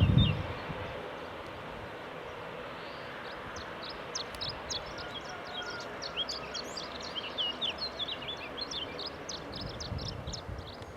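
Small birds chirping in quick, high, short notes over a steady outdoor hiss. There is a brief loud low buffet at the very start and softer low bumps near the end.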